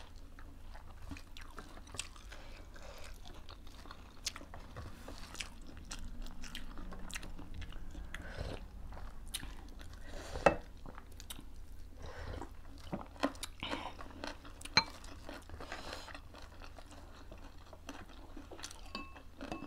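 Close-up chewing and biting of food, with wet mouth clicks and crunches, and a few sharper clicks, the loudest about halfway through.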